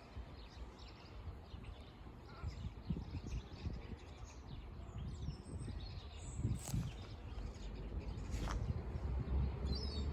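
Outdoor background rumble with a few faint bird chirps, mostly around the middle and near the end, and scattered small clicks.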